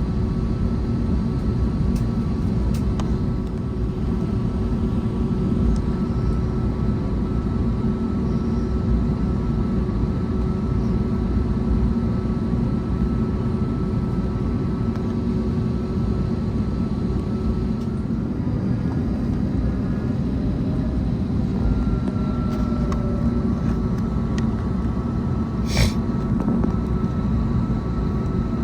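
Steady cabin noise inside an Airbus A321neo with its engines running: an even low rumble with a few faint steady tones, holding level throughout. A single brief sharp click sounds near the end.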